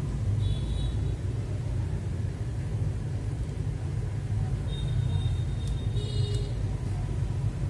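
Steady low rumble of background noise, with a few faint short high-pitched tones and light clicks about five to six and a half seconds in.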